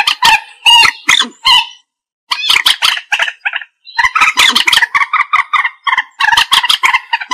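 Common moorhen calling: rapid runs of short, loud notes, broken by a brief silence about two seconds in, then a dense run of calls from about four seconds.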